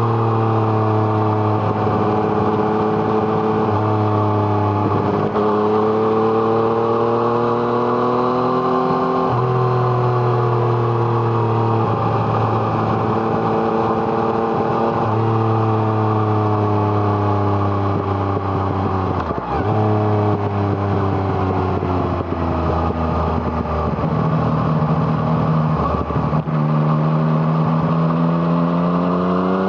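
Yamaha MT-09's three-cylinder engine through an Arrow Thunder exhaust, heard from on board while riding: the engine note climbs steadily in pitch under throttle, then drops or changes abruptly at gear changes, about half a dozen times.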